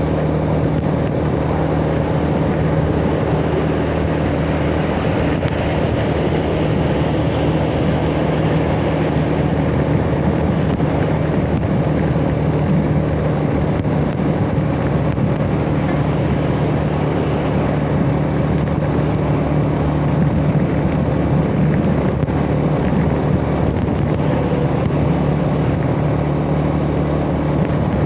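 Yamaha Jupiter Z underbone motorcycle's single-cylinder four-stroke engine running at a steady cruising speed, its pitch holding even without revving up or down.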